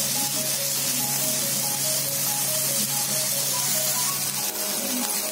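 Pineapple slices sizzling in ghee on a hot tawa, a steady frying hiss, with light background music of short melody notes.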